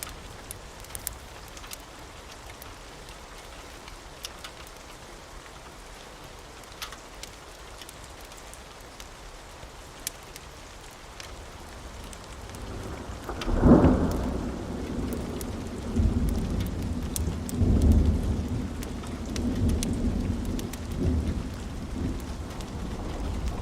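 Steady rain with scattered small ticks, then about halfway through a roll of thunder builds to a sharp peak and keeps rumbling in several deep swells.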